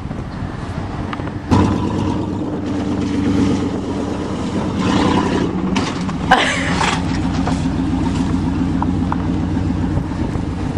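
1988 Chevrolet pickup truck's engine running under way, getting louder about a second and a half in and then holding a steady drone. A short sharp noise stands out about six seconds in.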